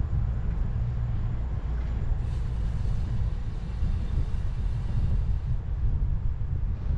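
Wind rumbling on a bike-mounted GoPro Max camera's microphone while riding, with a brighter hiss from about two to five and a half seconds in.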